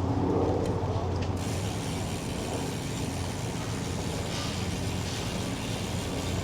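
Bicycle rear freewheel hub ticking as the bike coasts, from about a second and a half in, over a steady low rumble of road and wind noise.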